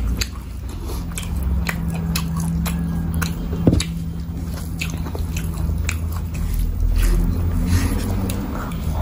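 Close-miked chewing of a mouthful of curried duck meat, with many short wet mouth clicks and smacks, over a steady low hum.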